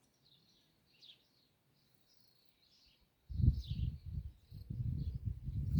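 Small birds chirping faintly and repeatedly in the background. About three seconds in, a loud, uneven low rumble comes in and drowns everything else.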